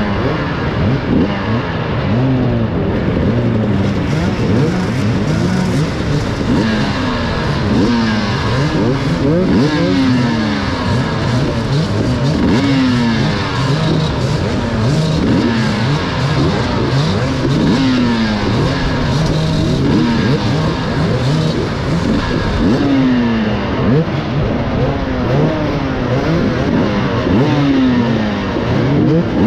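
Many enduro motorcycle engines running and revving at once, their throttles blipped again and again in quick, overlapping rising revs.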